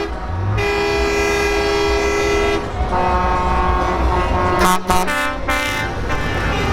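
Truck air horns sounding over the low rumble of engines: one long blast of about two seconds, a second held tone of about a second and a half, then short toots about five seconds in.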